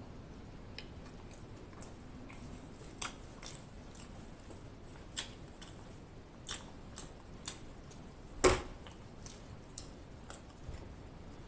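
A person chewing food with the mouth close to the microphone: scattered wet mouth clicks and smacks at irregular intervals, the loudest a sharp click about eight and a half seconds in.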